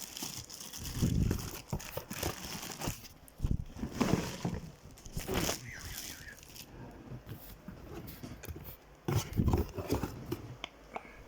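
Cardboard box and plastic packaging being opened and handled: irregular rustling and crinkling, with a few low thumps as items are moved.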